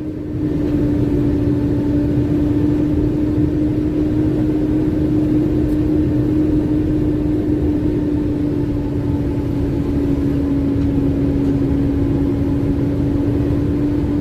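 Lorry engine running steadily while the truck drives: a low rumble with a constant droning hum that does not rise or fall.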